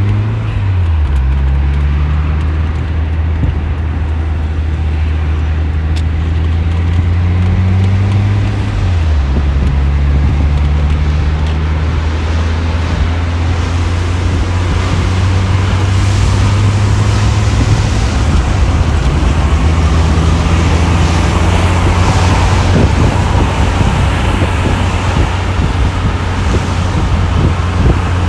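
1991 Lotus Elan SE Turbo driving, its turbocharged Isuzu four-cylinder engine pulling up through the revs and dropping sharply at a gear change about nine seconds in, then running steadily. Road and wind noise build through the second half.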